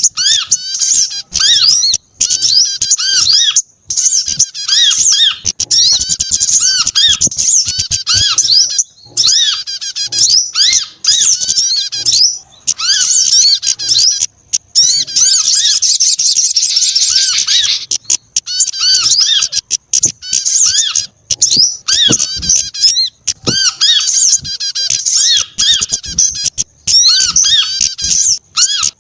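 Recorded calls of small songbirds layered into a bird-lure track: rapid, high chirps and twittering trills in quick phrases with short breaks, and a dense buzzy trill about halfway through.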